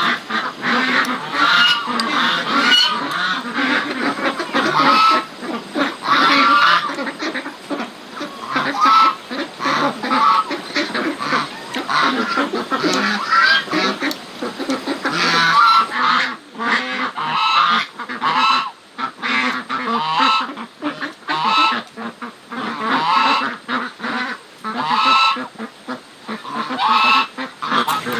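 A flock of waterfowl calling, with many short honking calls overlapping and repeating.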